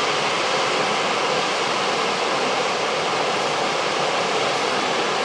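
A tall waterfall's falling water making a steady, even rush.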